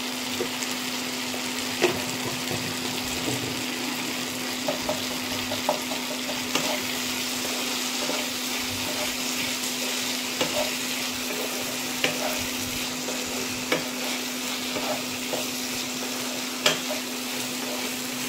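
Sliced capsicum, onion and tomato sizzling in sauce in a nonstick pan while a spatula stirs them, with scattered clicks of the spatula against the pan. A steady low hum runs underneath.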